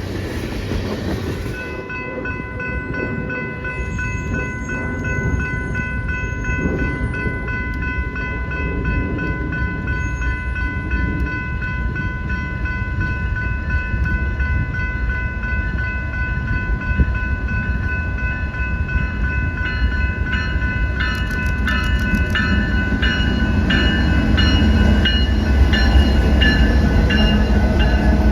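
A train rumbling through the station, growing louder toward the end, with several steady high tones heard over it throughout.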